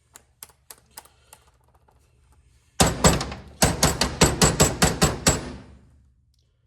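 A few light ticks, then a fast run of about a dozen sharp metal strikes, several a second, during work on the mower's bolts and parts.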